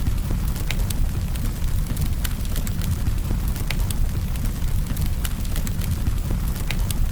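Campfire burning: a steady low rumble of flames with irregular sharp crackles and pops from the burning wood, roughly one or two a second.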